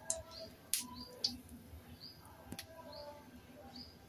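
Small birds chirping, a handful of short high calls spread across the few seconds, with a few sharp clicks among them.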